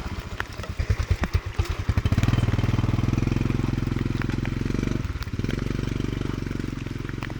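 Motorcycle engine running at idle, pulsing unevenly for about the first two seconds and then settling into a steady run, with a brief dip about five seconds in. Scattered sharp clicks sound over it.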